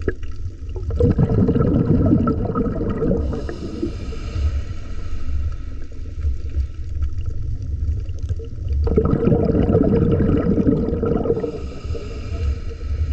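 Scuba diver breathing through a regulator underwater: a bubbly rush of exhaled air about a second in, then a hissing inhale, and the same cycle again from about nine seconds.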